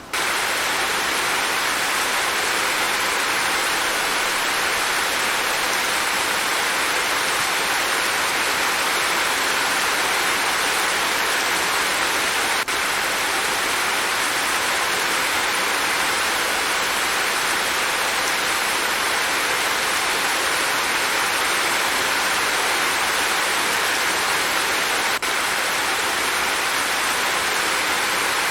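Steady rain: an even, unbroken hiss of falling rain that briefly dips twice, about halfway through and near the end.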